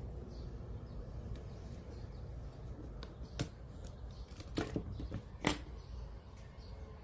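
A few sharp clicks and knocks of small parts and tools being handled during work on a cassette radio, the loudest about five and a half seconds in, over a steady low hum.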